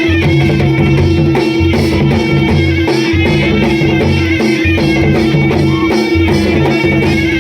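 Loud amplified Adivasi wedding dance music played by a dholiya and mandal band: a steady driving drum beat under a held droning tone and a reedy melody.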